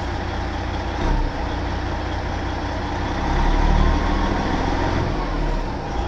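Semi truck's diesel engine idling through 7-inch straight exhaust pipes, given a short blip about a second in and revved up for about a second around the middle before settling back to idle.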